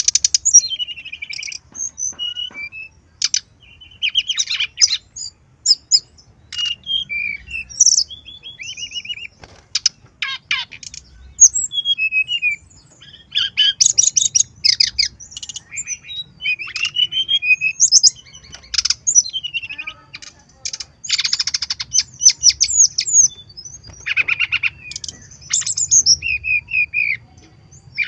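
Brown-chested jungle flycatcher singing a fast, varied song of chirps, short trills and rapid runs of repeated notes, phrase after phrase with brief pauses between.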